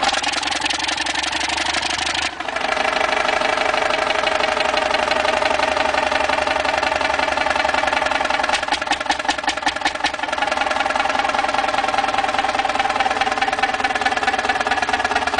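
Engine running steadily with a fast, even knocking clatter. The sound breaks off briefly about two seconds in and picks up again at once.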